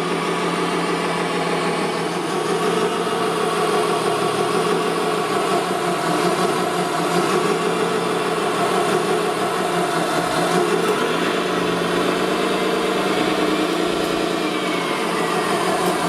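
Radio-controlled model construction vehicles running: a steady engine-like drone with motor whine, and a faint falling whine near the end.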